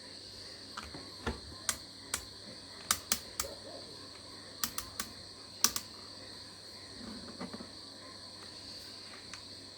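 A series of irregular sharp clicks and taps, about a dozen, bunched in the first six seconds with one more near the end, over a steady high-pitched drone.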